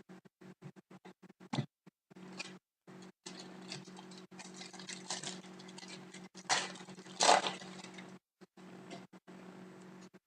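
Trading card pack wrapper crinkling and cards rustling as they are handled, with two louder crinkles about six and a half and seven seconds in. A low steady hum comes and goes underneath.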